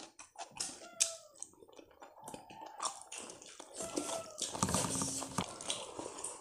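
Close-up eating sounds: wet chewing and lip smacking as handfuls of rice and curry are eaten, a run of irregular sharp clicks.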